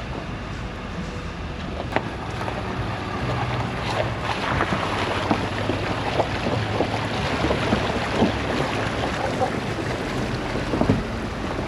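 Tractor engine running while on the move, with scattered rattles and knocks and wind on the microphone.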